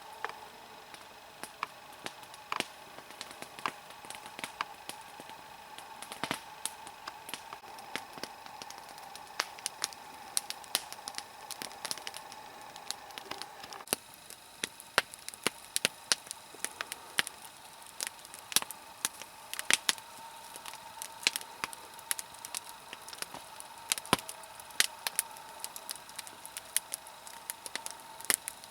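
Log fire of a small nodya made of wet logs burning and crackling, with frequent irregular sharp pops and snaps, some much louder than others.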